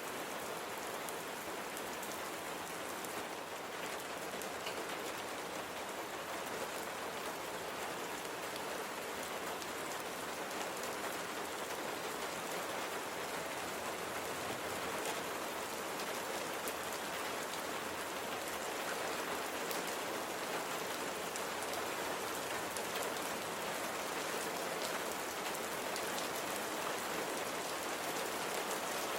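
Steady rain falling on a surface, a dense, even hiss with many small drop ticks.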